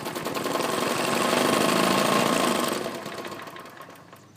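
Briggs & Stratton lawn mower engine running with a rattle, then shut off about three seconds in and winding down. The owner suspects the blade is loose or mounted crooked on the deck.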